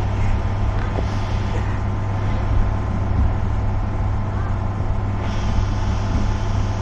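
Running noise of a passenger train heard from a coach window while it moves: a steady low hum under an even rushing rumble, with a higher hiss joining about five seconds in.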